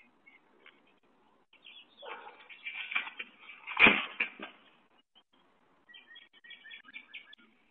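Small birds chirping in short, high calls. In the middle, a couple of seconds of rustling ending in a sharp thump, the loudest sound, as the animal by the deck rail leaves.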